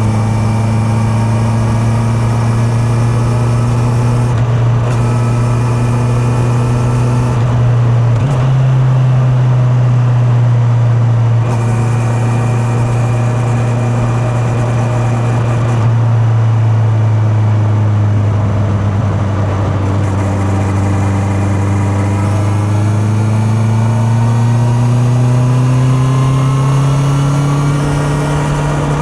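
Honda CB650R's inline-four engine running under way, heard from the rider's back pocket over wind and road noise. Its revs hold fairly steady with a few small steps up and down, then climb in a smooth rise over the last several seconds as the bike accelerates.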